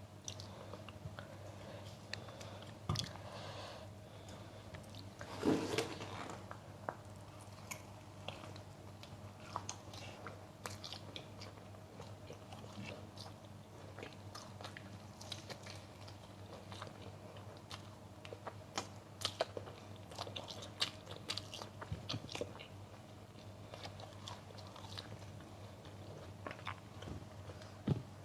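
Close-miked biting and chewing of crunchy food, fried chicken and raw vegetables: many short crunches throughout, with a louder bite about five and a half seconds in.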